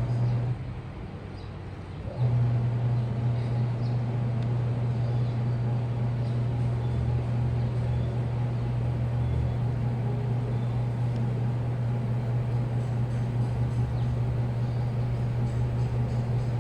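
Washing machine motor humming at a steady pitch as it turns the drum. It stops briefly near the start, then starts again about two seconds in and runs on evenly.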